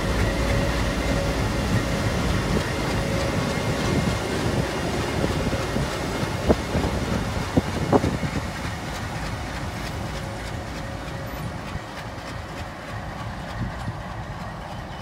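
A train running with a steady rumble and a faint whine, both slowly fading. There are three sharp clanks a little before halfway.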